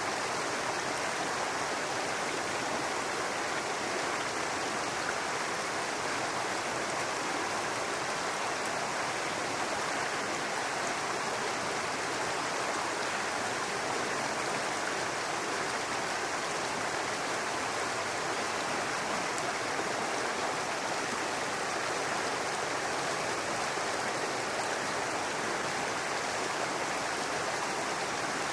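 Small brook running and babbling over stones: a steady, even rush of water.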